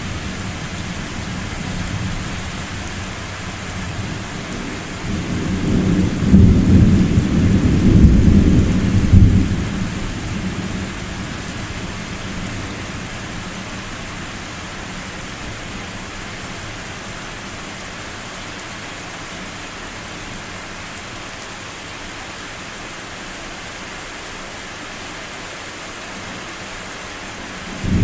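Thunder rolling over steady rain: a deep rumble swells about five seconds in, peaks for a few seconds and fades away, leaving the hiss of rain, and another clap of thunder breaks in suddenly at the very end.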